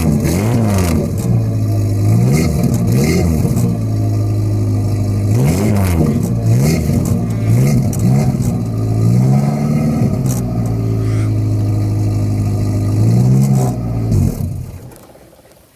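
1993 Holden TF Rodeo engine idling soon after a cold start, blipped up and back down about eight times with short throttle revs. About fourteen seconds in it winds down and stops.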